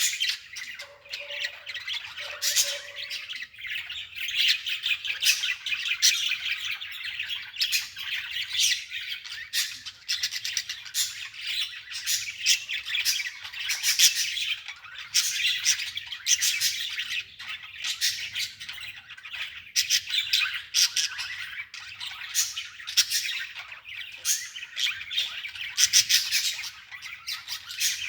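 Birds chattering and squawking continuously, many quick calls overlapping.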